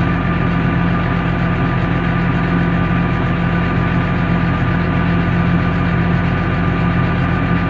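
International Harvester 686 tractor's 310 diesel engine running steadily under load, powering a forage chopper that is cutting green feed.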